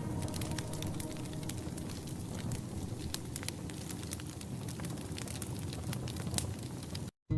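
Wood fire crackling in a fireplace: a steady low rush of flame with frequent sharp pops and snaps. The sound cuts out completely for a moment near the end.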